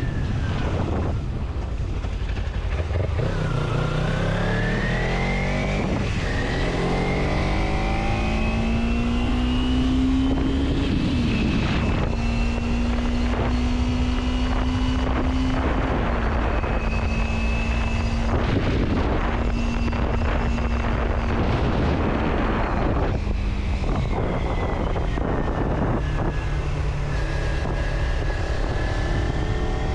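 Motor vehicle engine running while driving. The engine note climbs as it speeds up, holds steady, drops lower about two-thirds of the way through, then climbs again near the end, over a steady rushing noise.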